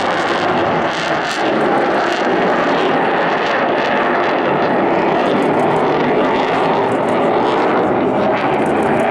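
Loud, steady jet roar of an RAF Eurofighter Typhoon FGR4's twin turbofans as the jet performs its display.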